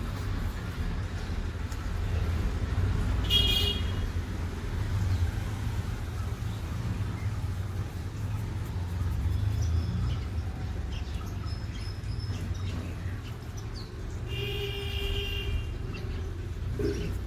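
Steady low rumble with two vehicle horn toots: a short one about three seconds in and a longer one near the end.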